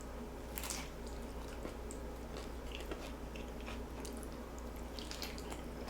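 A person chewing a mouthful of tostada close to the microphone, with scattered soft crunches and clicks.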